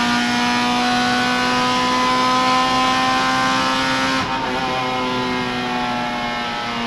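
Honda Civic Type R EP3's four-cylinder engine heard from inside the stripped cabin, running at high revs under hard acceleration with its pitch slowly rising. About four seconds in the note breaks briefly and drops lower and quieter, then climbs again near the end.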